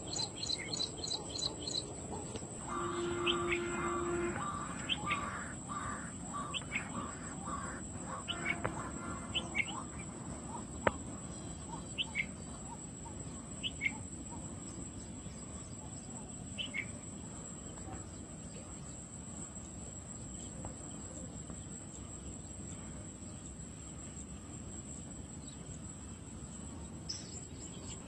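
Outdoor ambience of birds chirping and calling, with rapid chirps at the start and scattered short calls over the first half, over a steady high-pitched whine. A brief low steady tone sounds about three seconds in.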